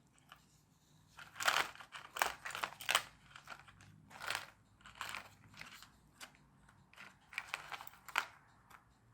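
Small plastic parts and motors being handled and rummaged through: irregular clicks, clatter and rustling, with a few louder knocks in the first few seconds.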